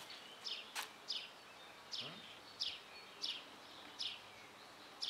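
A bird chirping a short, high, falling note over and over, roughly once or twice a second, with one sharp click about a second in.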